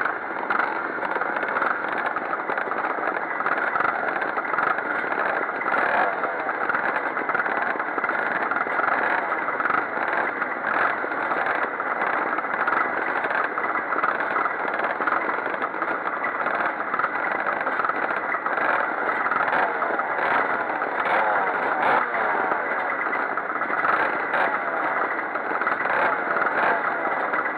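Pre-1965 vintage motocross motorcycles racing, their engines revving up and down without a break.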